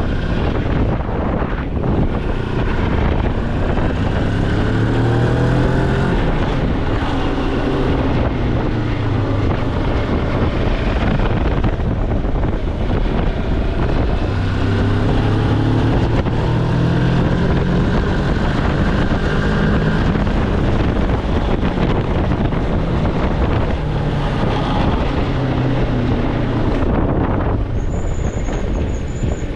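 Moto Morini X-Cape's 649 cc parallel-twin engine under way, climbing in revs twice, with steady wind rush on the microphone.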